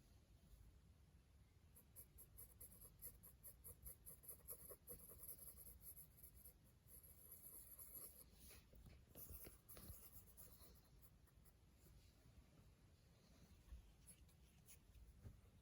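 Faint scratching of a pencil on paper in quick, short, repeated strokes as dark areas of the drawing are filled in.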